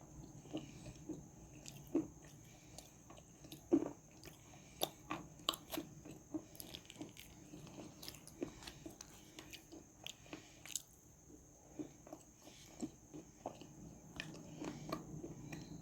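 Close-up crunching and chewing of edible clay: repeated sharp crunchy bites, the loudest about two and four seconds in, among softer chewing clicks.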